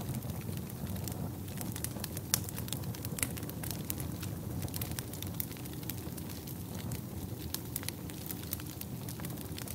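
Wood fire burning in a fireplace: a steady low rumble of flames with frequent sharp crackles and pops scattered irregularly through it.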